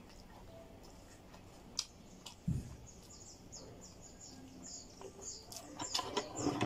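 A small bird chirping over and over in short, quick, high notes, about three or four a second, from about halfway through. Scattered clicks and a dull thump from eating, which grow busier near the end.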